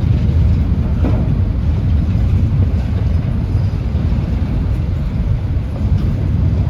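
Freight train rumbling past with a steady, loud low rumble.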